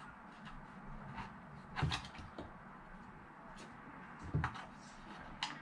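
Light clicks and knocks of hard plastic RC car parts being handled, with two louder knocks about two seconds and four and a half seconds in and a sharp click near the end.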